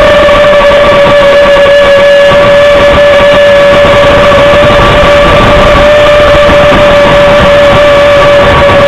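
Drone propellers and motors humming at one steady pitch, with wind buffeting the low end.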